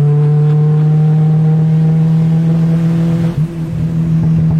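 Turbocharged Honda B20 four-cylinder engine in a 1992 Civic running at steady, raised revs: a loud, even drone with a brief dip a little over three seconds in.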